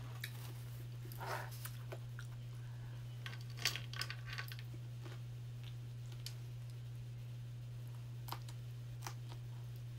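A person biting and chewing a chili cheese dog: soft, scattered wet mouth sounds and lip smacks, busiest about four seconds in, with single smacks near the end, over a steady low hum.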